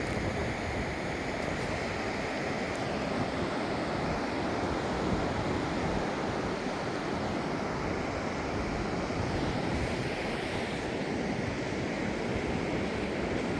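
Pacific Ocean surf washing in steadily, with wind.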